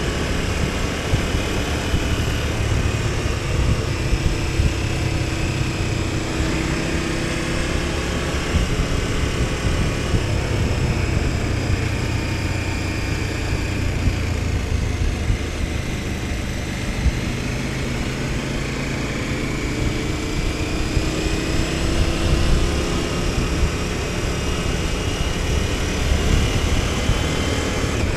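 KTM 1290 Super Adventure S V-twin engine running under way at steady moderate revs, its pitch easing down slowly and then climbing again later on.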